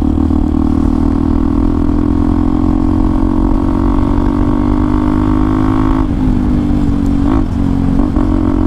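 Hero XPulse 200 4V's single-cylinder engine running through an aftermarket Akrapovic exhaust while riding at a steady pace. The engine note holds even, then dips slightly in pitch about six seconds in.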